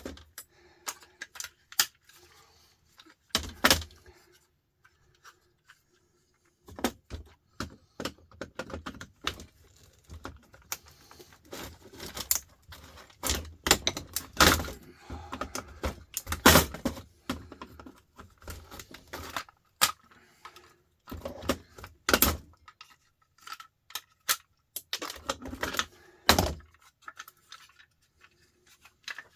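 Hand tools working on metal scrap: irregular clinks, scrapes and knocks as parts are pried and tapped apart, with a few louder knocks.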